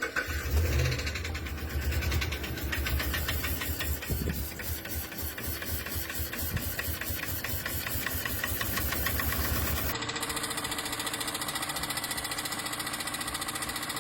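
Car engine running with a rapid, even tapping rhythm over a low drone. About ten seconds in the sound cuts abruptly to a steadier recording of the engine running with a faint steady whine.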